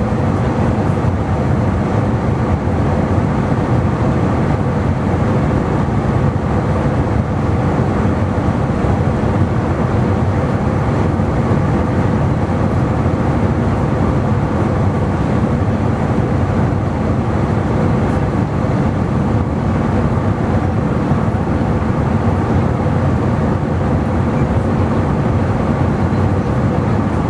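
Airbus A320 cabin noise in flight: a steady jet-engine drone and airflow rumble, with a few steady hum tones over it.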